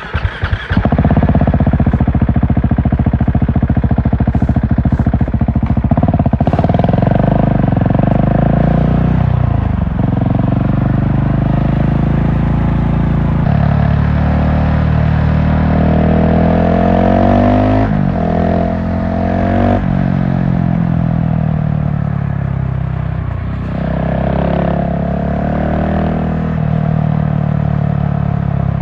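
GasGas SM700 supermoto's single-cylinder engine running hard under way. Its pitch climbs and falls, dropping sharply at gear changes about 10, 18 and 23 seconds in.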